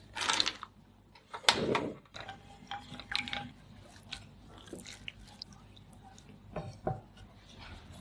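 Food-preparation handling sounds: a few short noisy scrapes or crunches, the loudest about a second and a half in, followed by lighter taps and clicks.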